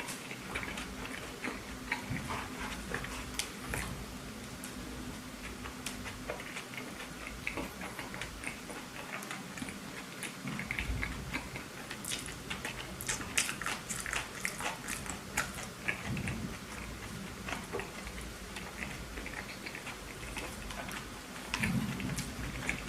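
A person chewing and biting a burger close to the microphone: a continuous run of short mouth clicks and smacks.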